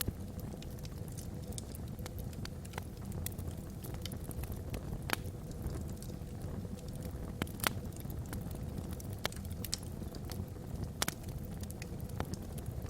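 Wood fire burning logs in a fireplace: a steady low rumble with frequent sharp crackles and pops, a few louder pops standing out.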